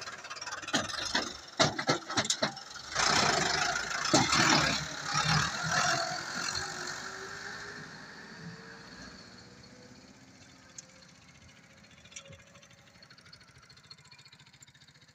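Tractor engine running, loud and rattly with several sharp knocks in the first six seconds or so, then fading steadily away.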